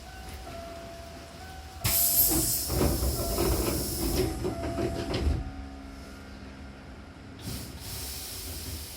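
Hankyu train's pneumatic sliding doors operating: a sharp burst of compressed-air hiss with clattering as the door leaves move, lasting about three and a half seconds, then a short hiss of air release a couple of seconds later. Soft electronic tones sound in the first two seconds.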